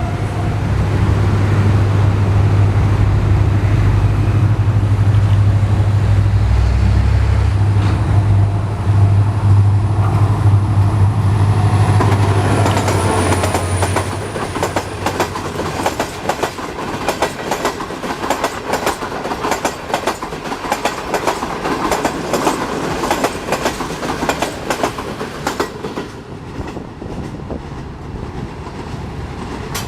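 HGMU-30 diesel-electric locomotive passing close, its engine a loud deep drone for about the first fourteen seconds. After that the coaches follow, their wheels clattering rhythmically over the rail joints as the train goes by.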